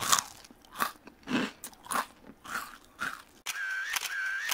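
Close-miked chewing of a crunchy mouthful of lettuce-leaf wrap, with a crunch about every half second. About three and a half seconds in, an added camera-style sound effect starts, with a bright ringing tone repeating about twice a second.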